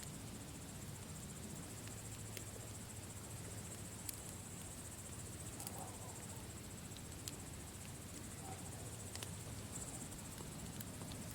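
Campfire burning with a few sharp crackling pops, over a steady high-pitched chirring in the background.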